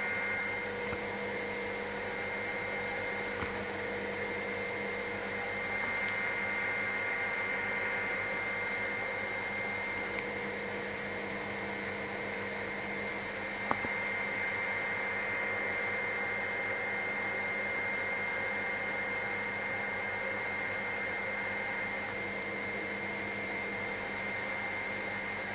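Helicopter heard from inside the cabin, engine and rotor transmission running steadily with a constant hum and a high whine, during an approach to a mountain landing site. A single click about 14 s in.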